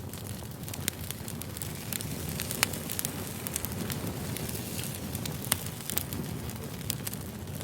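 Wood fire crackling: irregular sharp pops and snaps over a low steady rumble of burning logs, with a couple of louder snaps.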